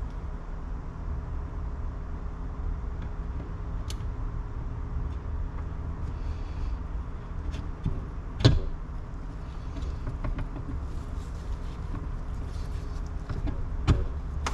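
A few sharp knocks of metal engine parts being handled on the bench, the loudest about eight and a half seconds in, over a steady low hum.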